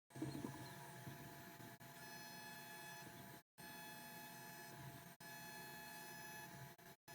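CNC WE tattoo machine buzzing steadily at one pitch while lining, faint, broken by brief dead-silent gaps about three and a half and five seconds in.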